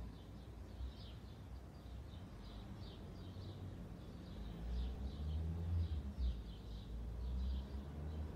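Small songbirds chirping over and over, short high calls about two a second, over a low rumble that grows louder about halfway through.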